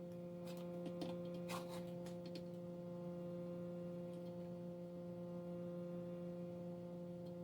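Light clicks and taps of small tools and parts handled at a soldering bench during the first couple of seconds, over a faint steady low electrical hum.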